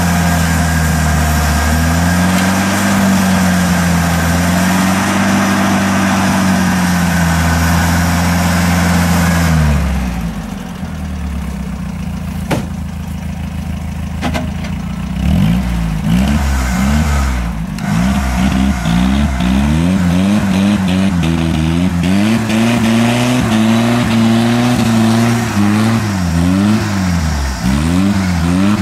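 Off-road GAZ-69's engine held at high revs with its wheels spinning in mud, easing off about ten seconds in. From about halfway the engine is revved up and down again and again as the stuck vehicle is rocked forward through the mud.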